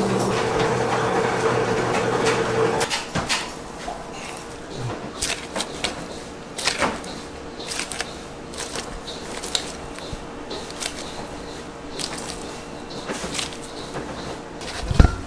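A machine hums steadily and cuts off about three seconds in. After that come scattered light clicks and knocks of hands and utensils at work, with a heavier thump near the end.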